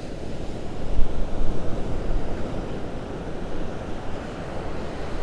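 Strong wind buffeting the microphone over the rush of Gulf surf, coming in gusts, the loudest about a second in.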